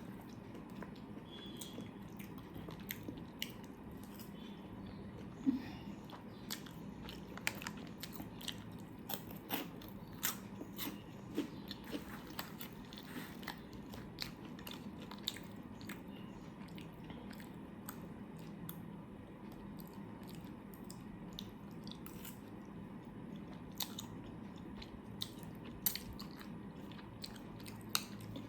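A person chewing and eating food close to the microphone, with many scattered, irregular mouth clicks.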